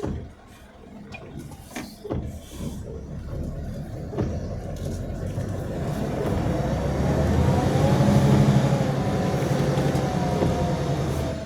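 A motor vehicle's engine running, growing steadily louder to a peak about eight seconds in and then easing slightly, with a whining tone that sinks a little after the peak. A few knocks sound in the first few seconds.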